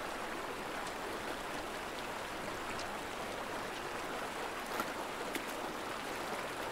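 Stream water rushing steadily, with a few faint clicks or splashes about five seconds in.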